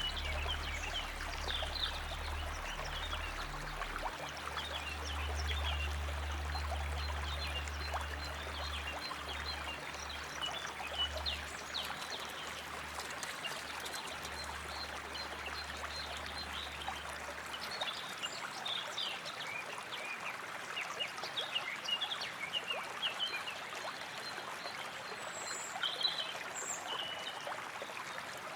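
Flowing water trickling steadily, with many small chirping calls of birds or frogs over it. A low steady drone of ambient music fades out a little past halfway.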